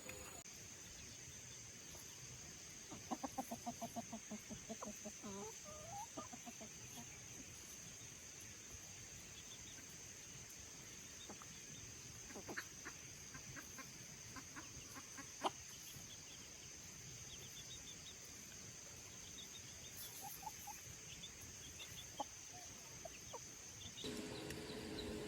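Faint chickens clucking: a quick run of clucks a few seconds in, then scattered clucks and clicks, over a steady high-pitched whine that stops near the end.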